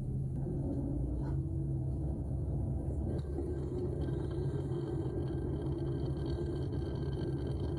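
Dishwasher running, heard from inside the wash tub through a sealed waterproof camera case: a steady, muffled low rumble and hum of the wash cycle.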